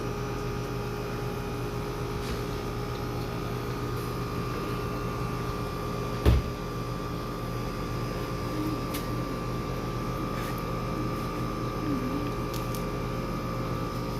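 Steady mechanical hum with a few constant tones, broken once by a single sharp thump about six seconds in.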